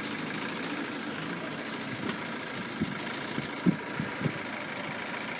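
Road vehicles' engines idling with a steady hum, and a few short dull thumps about three to four seconds in.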